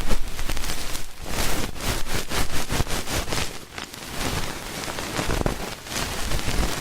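Ear pick scratching and rustling close to the microphone in ear-cleaning ASMR: a dense, uneven run of small crackling scratches.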